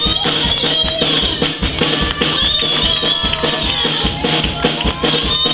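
Live music with a drum kit playing a steady beat, bass drum and snare, under pitched instruments.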